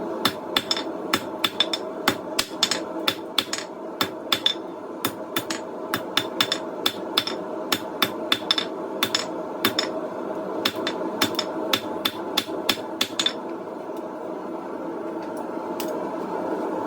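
Hand hammer striking hot coil-spring steel on an anvil, about three blows a second, each with a short metallic ring, as the tip is drawn out to a point. The hammering stops about thirteen seconds in, with one more blow near the end, over a steady hum.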